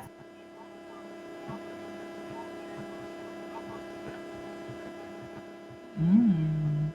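Steady electrical hum made of several steady tones. About six seconds in, a brief loud vocal sound from a person, which rises in pitch, drops back and holds for under a second.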